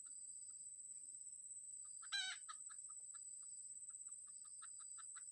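Junglefowl calling: one short, loud, harsh call about two seconds in, followed by a run of quick clucks about three a second. A steady high-pitched tone runs underneath throughout.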